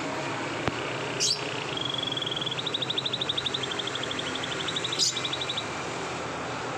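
Canary singing a long rolling trill: a fast run of evenly repeated notes held for about four seconds, with a short sharp chirp just before it and another near its end.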